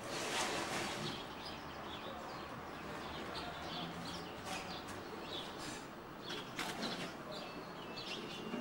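Small birds chirping, many short calls scattered throughout over a steady background hiss, with a brief burst of noise at the start.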